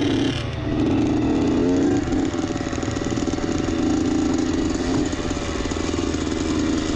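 1989 Honda CR80's two-stroke single-cylinder engine running at fairly steady low revs, with a brief dip in revs about half a second in.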